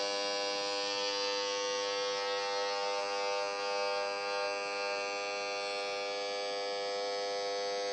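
Steady electronic buzz from a microwave probe's built-in speaker, turning the microwaves it detects into an audible tone. With no reflector and no standing wave, the buzz stays fairly constant as the probe is moved along the beam.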